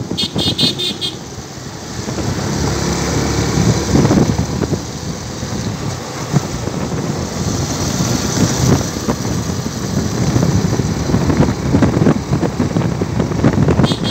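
Motorcycle running on the road with wind buffeting the microphone. A brief pulsing high tone sounds just after the start.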